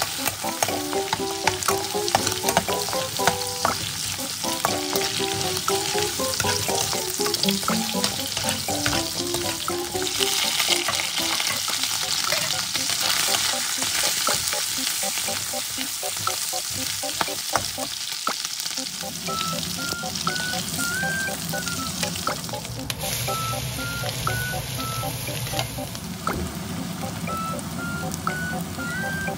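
Food frying in hot oil in a stainless steel pan, sizzling steadily: first shrimp heads being fried to draw out shrimp oil, then shrimp, then chopped shallot and garlic. A metal spatula stirs them, clicking and scraping against the pan.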